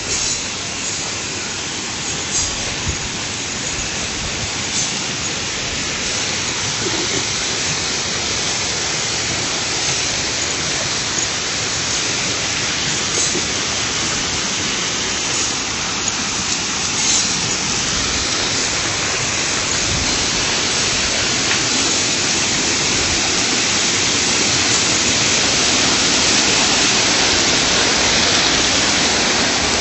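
Water of a small river rushing steadily over its bed, growing slightly louder near the end.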